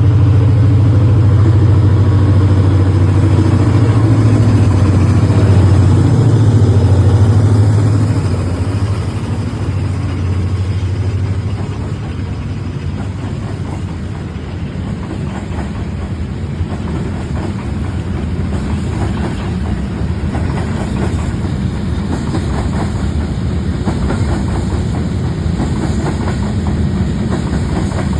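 Freight train passing: a loud low engine hum from the locomotive for the first several seconds, fading about eight seconds in, then the wagons rolling by with a steady rumble and a rapid clatter of wheels over the rails.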